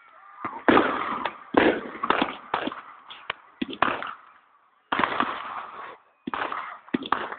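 Fireworks going off: a run of sharp bangs at irregular intervals, each trailing off quickly.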